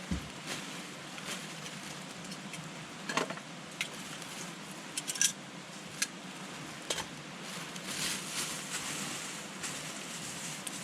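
Campfire wood burning, crackling with sharp, irregular pops, the loudest about three and five seconds in, over a steady hiss.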